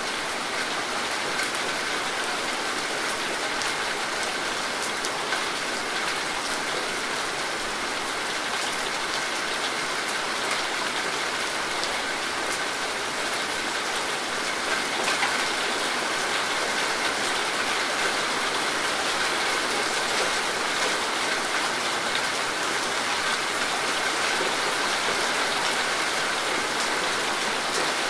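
Steady rain falling on leaves and foliage, a continuous hiss dotted with the patter of countless individual drops.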